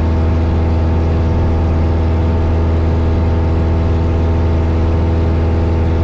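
Engine and propeller of a 1972 Cessna 172 Skyhawk (four-cylinder Lycoming O-320) droning steadily in the cabin during the climb, with a strong low hum and several steady overtones that hold their pitch.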